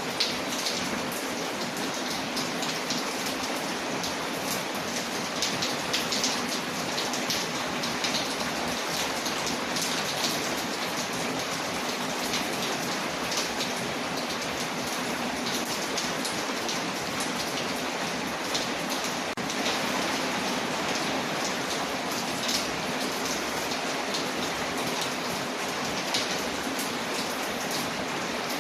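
Steady rain falling on a window, layered with a crackling wood fire whose small sharp pops and ticks come every second or so over the constant hiss.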